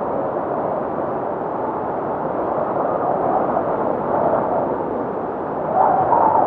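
Blizzard wind blowing steadily, rising into a stronger gust near the end.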